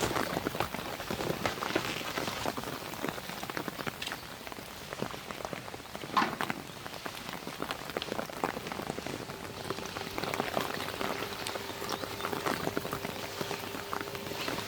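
Rain pattering on a surface, heard as a dense run of small separate drop ticks, with one sharper tap about six seconds in. A faint steady hum comes in about two-thirds of the way through.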